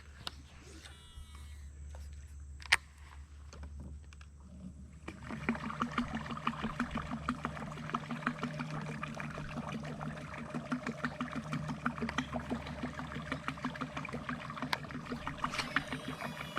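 Electric trolling motor starting about five seconds in and running, its propeller churning and splashing in very shallow water with rapid pulses. A few bird chirps before it starts.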